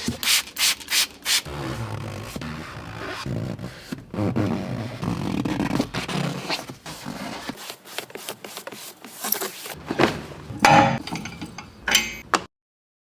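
Hand scrubbing or wiping a car's surface: repeated rubbing strokes, several quick ones at the start and then irregular, with a brief cut to silence near the end.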